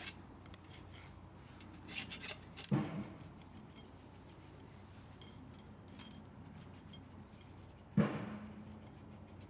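Hand tools and metal parts of an electric pump motor clinking and clicking as the motor is taken apart, with two heavier metal clanks, one about three seconds in and a louder one near the end, each ringing briefly.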